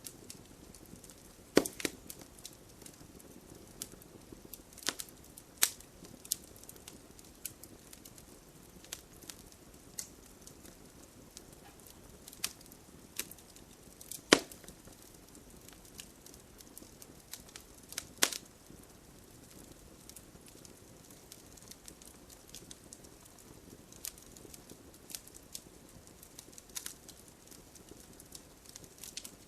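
Campfire crackling: a soft steady hiss of burning wood with irregular sharp pops and snaps, the loudest about a second and a half in, at about fourteen seconds and at about eighteen seconds, and thinner, fainter crackling in the last third.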